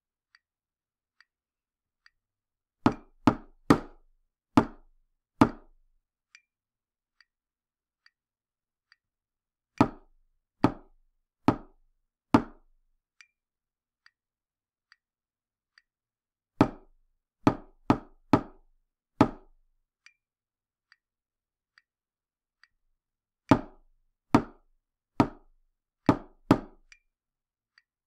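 Sharp knocks in clusters of four or five, one cluster about every seven seconds, some knocks in each cluster coming in quick succession. Faint, evenly spaced ticks, a little under a second apart, fill the gaps.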